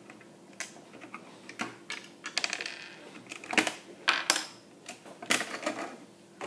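Plastic Lego pieces clicking and clattering as they are handled: a scattered run of sharp clicks, the loudest about three and a half to four seconds in.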